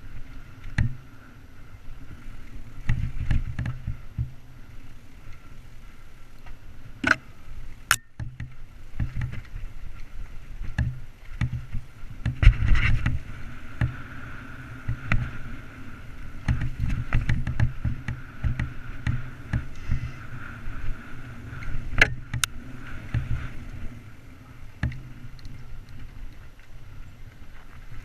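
Mountain bike riding over a rough trail, heard from the GoPro Hero3+ camera mounted on it: an uneven rumble of tyres and jolts over rocks and roots, with a few sharp clicks.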